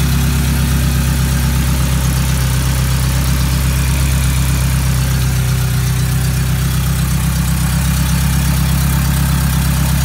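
Honda B20 VTEC inline-four engine idling steadily, heard close up in the engine bay.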